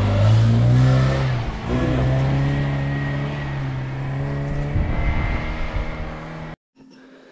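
Motor vehicle engine revving under load, its pitch rising a little then dropping and holding a steady drone. It cuts off abruptly near the end.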